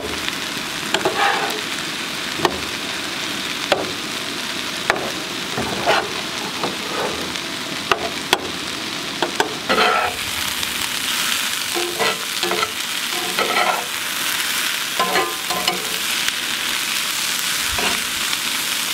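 Elk steak strips sizzling on a camp-stove griddle while a metal spatula flips them, with scrapes and taps of metal on metal. About halfway through, onions and bell peppers frying in a cast-iron skillet are stirred with a spatula, and the sizzle grows brighter.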